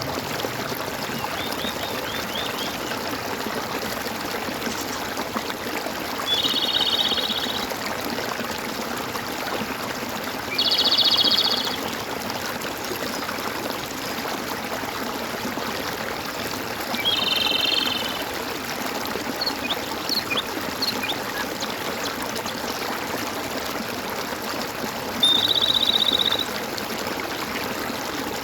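Water gurgling and trickling steadily, with four loud, buzzy one-second trill calls from an animal, spaced several seconds apart, and a few faint short chirps in between.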